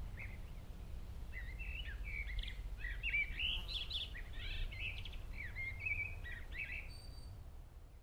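Songbirds chirping and twittering in quick, busy phrases over a steady low outdoor rumble, everything fading out near the end.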